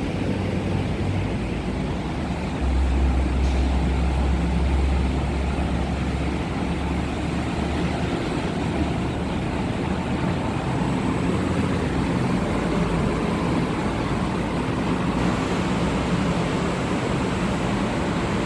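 Electric commuter train running at a station platform: a steady rumble with a low drone that swells about three seconds in and eases off over the following several seconds.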